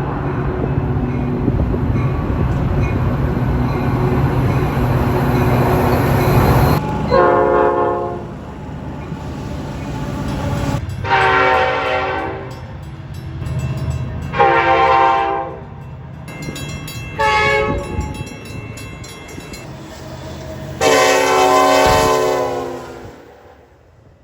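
Metra commuter train's locomotive horn blowing five blasts, short, long, long, short, long, the last four the long-long-short-long grade-crossing signal, over the loud rumble of the approaching train. The rumble dies down about seven seconds in, and the train fades away after the last blast.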